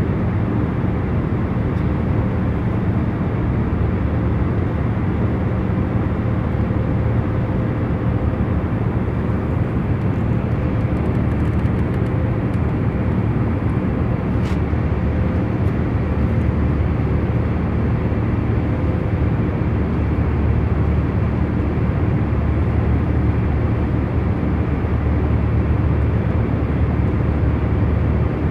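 Airliner cabin noise in cruise: a steady low rumble with a few faint constant hums running through it, and one faint tick about halfway through.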